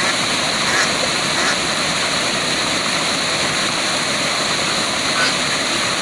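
Waterfall rushing steadily, with a few faint brief sounds over it about a second in and again near the end.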